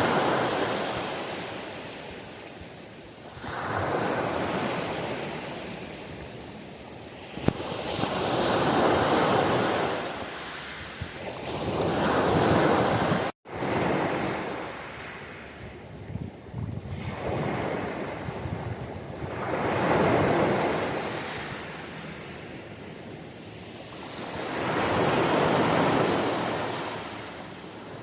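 Ocean waves washing onto a shore, the surf swelling and ebbing in repeated surges every three to five seconds. The sound cuts out for an instant about halfway through.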